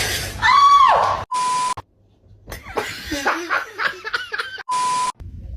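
A short, loud cry that falls in pitch, then a censor bleep (a steady beep tone). After it come a few seconds of snickering laughter, and a second bleep near the end.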